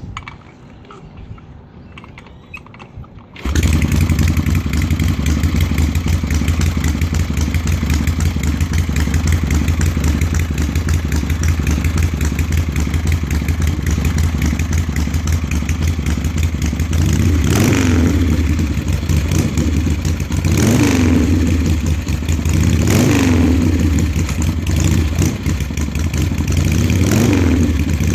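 A 1976 Harley-Davidson Ironhead V-twin chopper engine catches on a cold start about three seconds in and keeps running steadily. In the later part it is revved briefly four times, each rev rising and falling in pitch.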